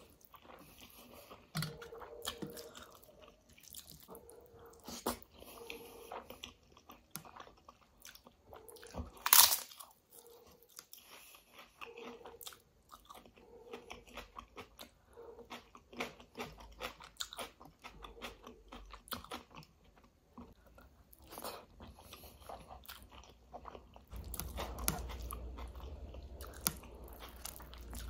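Close-miked eating sounds: chewing and biting of rice with yogurt curry (kadhi chawal) eaten by hand, many small wet mouth clicks and smacks. One much louder sharp crunch about nine seconds in, and a low rumble joins near the end.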